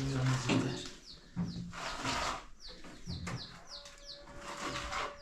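Small birds chirping: a quick run of short, high, falling chirps, over some low rustling noise.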